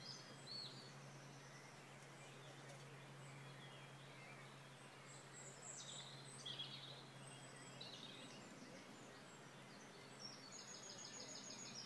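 Near silence: quiet outdoor ambience with small birds chirping now and then, and a rapid trill near the end.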